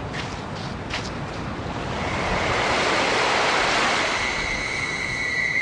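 Sea surf washing onto a beach, the rush of the water swelling to a peak midway and easing off. A steady high tone comes in about two seconds in and holds.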